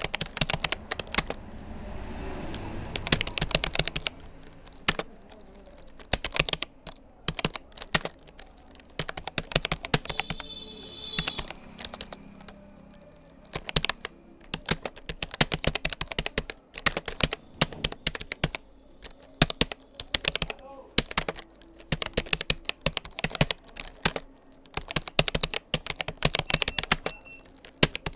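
Typing on a Rapoo computer keyboard: rapid runs of key clicks in bursts, broken by short pauses.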